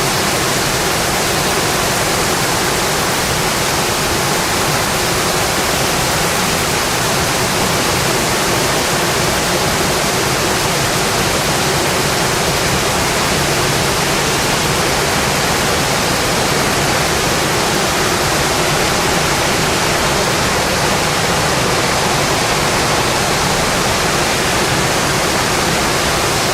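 Steady heavy rain drumming on a metal roof, an even, unbroken hiss.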